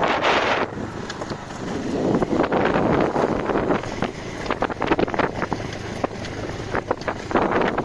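Wind buffeting the microphone during a ride along a road, in irregular gusts over the running noise of the vehicle.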